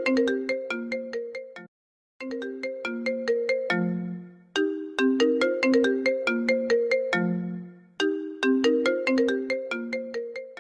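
Apple iPhone ringtone playing its melody of quick, ringing notes, repeating in phrases a few seconds long, with a short break about two seconds in and another near the end.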